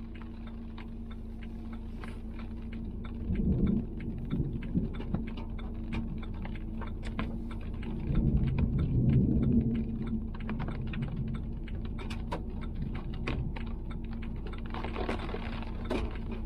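Light irregular tapping, typical of rain on a vehicle, over a steady low hum inside the vehicle. Two louder low rumbles come in, one about three seconds in and a longer one around eight to ten seconds in.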